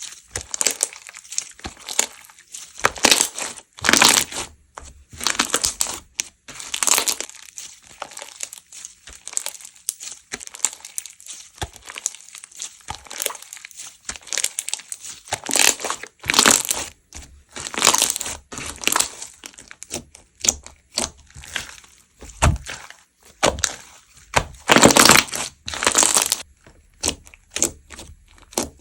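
Slime being squeezed, pressed and stretched by hand, making irregular crackling and popping bursts, with a few longer, louder crackles.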